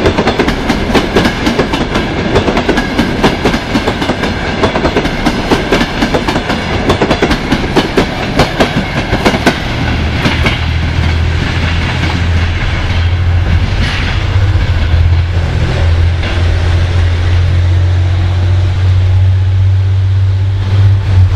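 Passenger coaches running past on rails, wheels clattering rhythmically over the rail joints until the last coach passes about ten seconds in. The clatter then thins out as the train draws away, leaving a low steady rumble.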